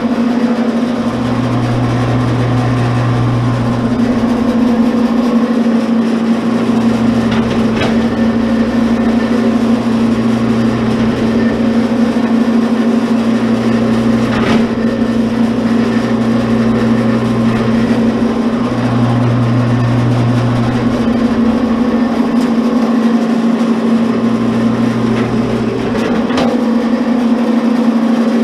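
A motor running steadily with a constant hum, its lower note swelling and fading every few seconds, with a few faint clicks.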